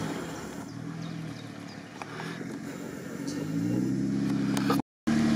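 Off-road vehicle engine fording deep water: its note falls away at the start as it loses revs, in keeping with the stall the crew asks about moments later. After a quieter stretch an engine revs up again about three and a half seconds in, the sound cuts out for a moment, then an engine runs steadily.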